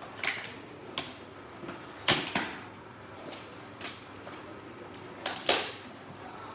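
A cardboard box being handled and opened, with short scrapes, rustles and knocks of cardboard and packing. The sharpest is about two seconds in, and a pair comes near the end.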